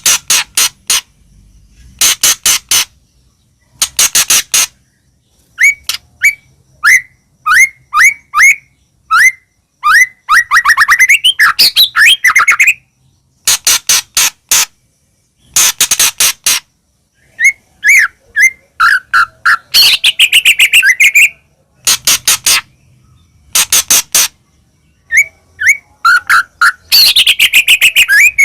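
White-rumped shama (murai batu) singing loudly: clusters of sharp, rapid repeated calls alternating with fast sweeping whistled phrases.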